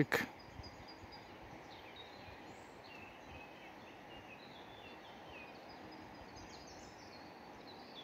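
Small songbirds chirping faintly, a scattering of short high chirps through the middle, over a steady low outdoor hiss.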